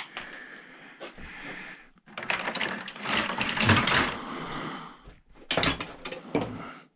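Small pieces of metal scrap clinking and rattling as they are handled and sorted, in a burst of rapid clicks starting about two seconds in and a shorter one near the end.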